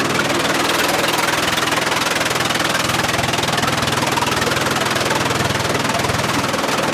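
Sawmill machinery running: a loud, steady mechanical din with a low engine hum underneath.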